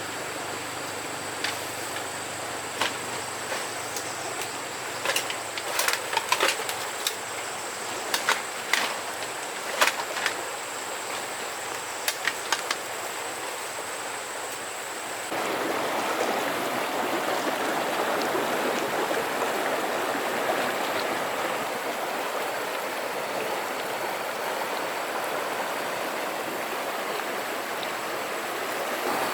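Steady rush of flowing river water, with a thin high whine and scattered knocks and clinks in the first half. About halfway through it cuts to a louder, fuller rush of water.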